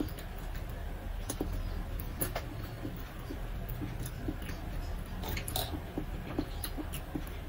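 A person chewing and eating by hand: wet mouth sounds with scattered small irregular clicks and smacks.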